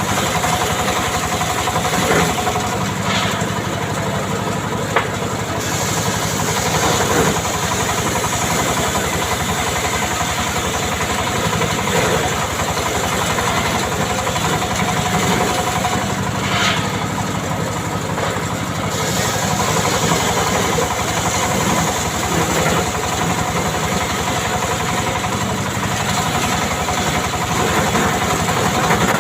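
Engine of a timber saw running steadily for the whole stretch, with a few brief sharp knocks and small shifts in its pitch.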